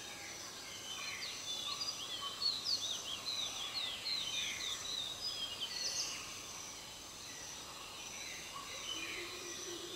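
Forest birds chirping: a busy run of quick, sweeping chirps that crowds in about a second in and thins out after about six seconds, over a steady high drone.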